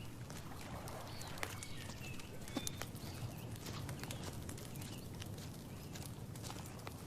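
Outdoor nature ambience: scattered dry clicks and crackles, like rustling dry leaves, and a few brief high bird chirps over a steady low rumble.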